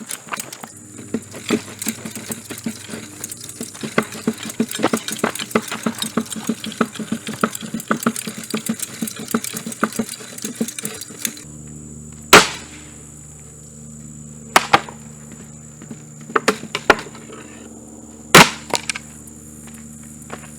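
Mainstays hugger ceiling fan being wrecked: rapid, irregular clattering and cracking for about eleven seconds. Then the electric motor hums steadily while four loud single bangs ring out a second or two apart.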